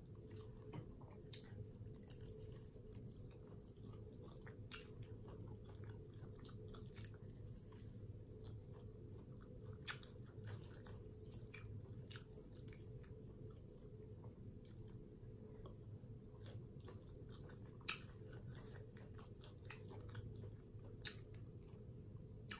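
Faint chewing and mouth sounds of a person eating a deep-fried chicken wing with her fingers: scattered soft clicks over a steady low hum.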